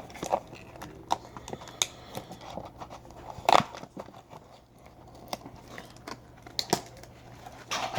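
Hands opening a cardboard mystery box of sports cards: scattered clicks and crinkles of cardboard and wrapping, with one louder crackle about three and a half seconds in, over a faint steady hum.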